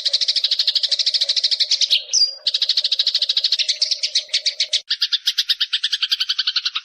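Eurasian tree sparrow giving a long, rapid chattering call, more than a dozen notes a second, with a brief break and a single higher note about two seconds in. The chatter shifts to a lower, doubled note pattern about five seconds in and cuts off suddenly at the end.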